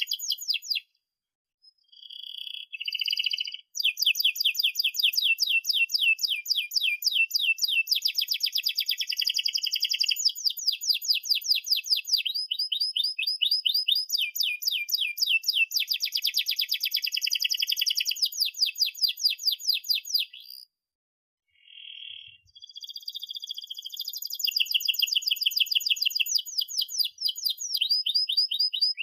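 Domestic canary singing a long, energetic song made of fast rolling trills of rapidly repeated high chirps, changing from one trill to the next every second or two. The song breaks off briefly twice, about a second in and about two-thirds of the way through.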